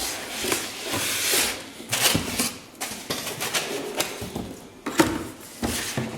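Packaging being handled as a boxed speaker is unpacked: rustling with several sharp clicks and knocks.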